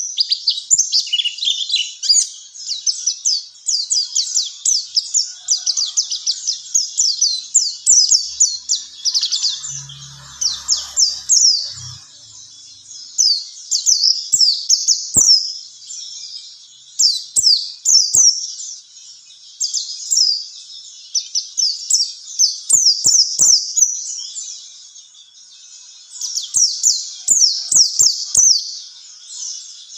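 White-eye (pleci) singing a long, rapid warbling song of high, quick chirps strung together in rushing phrases, with a few short pauses.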